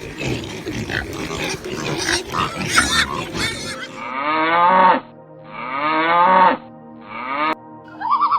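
Livestock calling: about four seconds of rough, noisy calls, then three drawn-out pitched calls, each falling in pitch, over faint background music.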